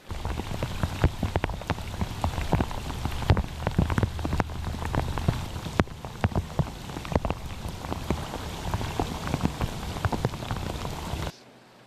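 Heavy rain falling on hard surfaces, with many sharp individual drop hits over a steady hiss. It cuts off suddenly near the end.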